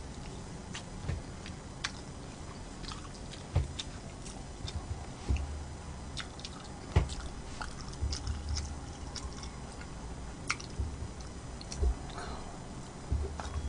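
Close-miked chewing and biting of food, with irregular sharp clicks and low thuds.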